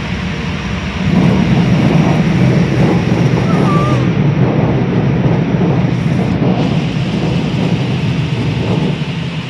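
Automatic car wash equipment working over the car: a loud, steady rushing noise that swells about a second in and eases near the end.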